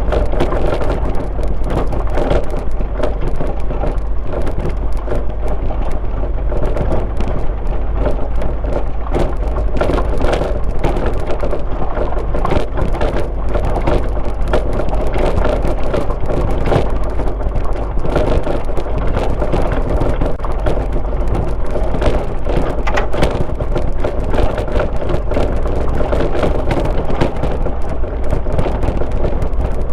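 Car driving on a rural road: a steady low rumble of engine and tyres with dense small crackles and clatter throughout.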